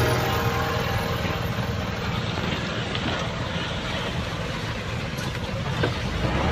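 A large engine running steadily, a low rumble under a broad noisy hiss.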